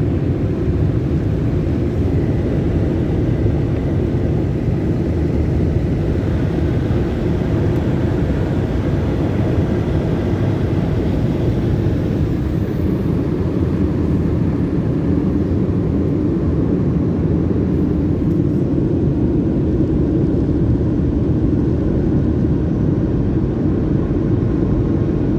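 Automatic car wash dryer blowers running at full power in a steady, unbroken roar of rushing air.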